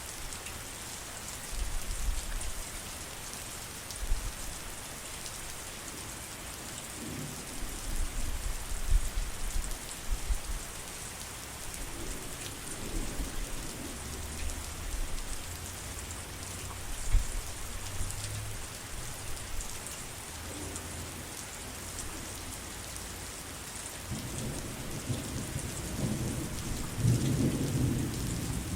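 Steady heavy rain hissing, with low rolls of thunder rumbling on and off, the loudest and longest building near the end.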